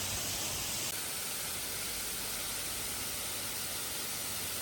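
Steady hiss of spraying, rushing water.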